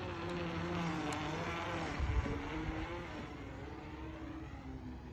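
A car engine running with a steady low hum, its pitch shifting slightly.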